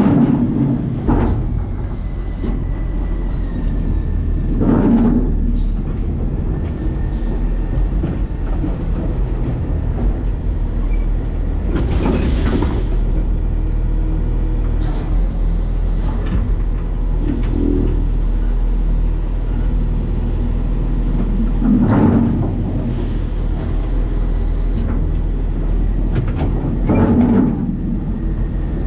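New Way Sidewinder side-loading garbage truck running, heard from its hopper: a steady low engine rumble, with louder bursts of noise about five, twelve, twenty-two and twenty-seven seconds in.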